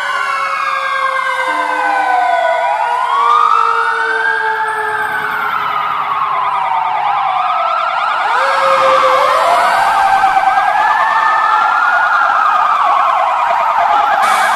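Several fire engine sirens wailing at once, their pitches rising and falling out of step with one another, with a lower tone sliding slowly downward through the first half.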